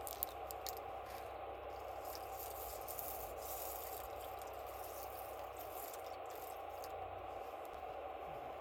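Wood campfire burning with a steady low rush, over which small sharp crackles and pops snap now and then. The loudest pop comes just after the start.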